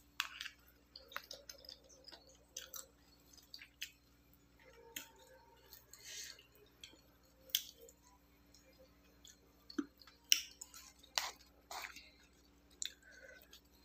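Someone chewing crisp fresh fruit (star fruit and mango rujak) close to the microphone: scattered short, soft crunches and clicks at an uneven pace. A faint steady hum runs underneath.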